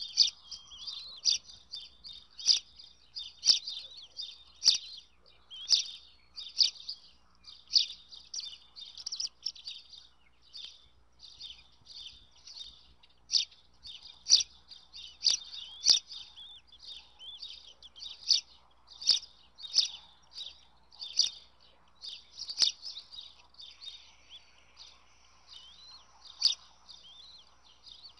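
Birds chirping steadily in high-pitched calls, with sharp clicks coming roughly once a second.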